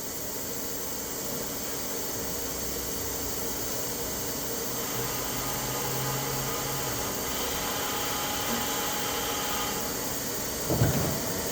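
Steady hiss and hum of an IEMCA bar feeder on a CNC Swiss lathe as it opens, with a low motor hum for about two seconds in the middle. A short louder noise comes near the end.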